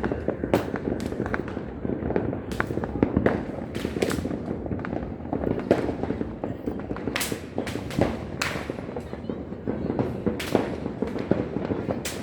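Fireworks and firecrackers going off all around: an irregular, continuous string of sharp bangs and crackles, several a second, over a steady rumble of more distant blasts.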